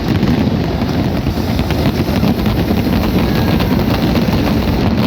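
Fireworks display: a dense, continuous rumble of many overlapping bursts and crackles, with no single blast standing out.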